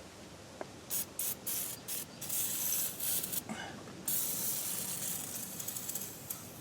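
Aerosol can of PB Blaster penetrating oil spraying onto rusted brake parts to loosen the rust. It goes in several short spurts, then in longer hisses, ending with one sustained spray of about two seconds near the end.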